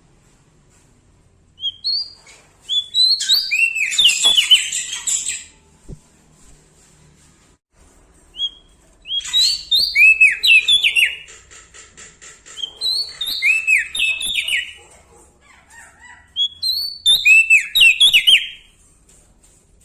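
A prenjak daun Lombok singing loudly in four bursts of sharp, down-slurred whistled notes mixed with high buzzy chatter, with short pauses between the bursts.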